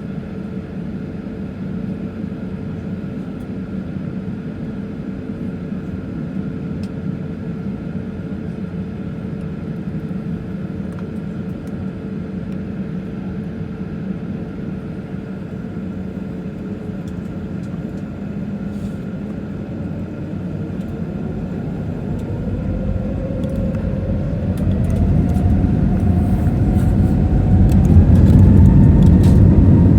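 Airbus A320neo's CFM LEAP-1A turbofans heard from inside the cabin, first running at low thrust with a steady hum and whine. About two-thirds of the way in they spool up, with a rising whine and the rumble growing much louder as take-off thrust is set, and some rattles come through near the end.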